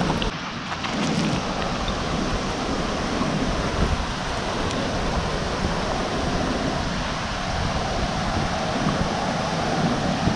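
River water cascading over a waterfall: a loud, steady rushing roar.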